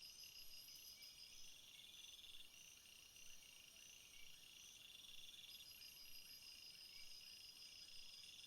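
Faint chorus of crickets and other insects chirping, several high-pitched pulsed trills overlapping and repeating in phrases a second or two long.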